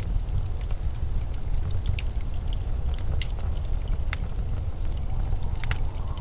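Steady, deep rumble of blizzard wind, with scattered faint sharp clicks.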